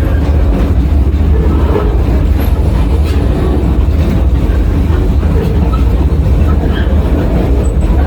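Narrow-gauge train heard from an open-air passenger car while rolling along the track: a steady, heavy low rumble of wheels and running gear, with a few faint clicks.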